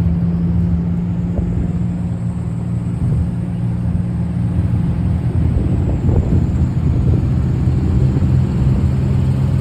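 Diesel passenger train running, heard inside a non-air-conditioned carriage: a steady low engine hum over the rumble of the running gear, the engine note shifting about halfway through.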